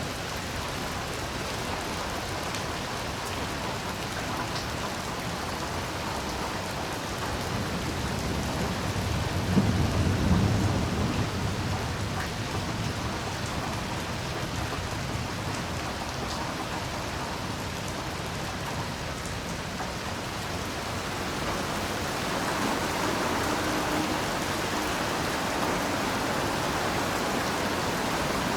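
Heavy rain falling steadily, with a low roll of thunder that swells and fades about ten seconds in; the rain grows a little louder near the end.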